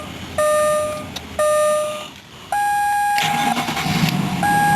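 2005 Ford Explorer's dashboard warning chime, sounding about once a second, then a longer, higher beep as the engine cranks and starts about three seconds in and runs, with another beep near the end.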